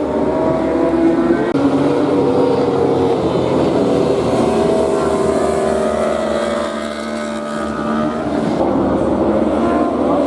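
Several racing motorcycles running at high revs, their engine notes overlapping and rising and falling as they pass, dipping briefly about seven seconds in.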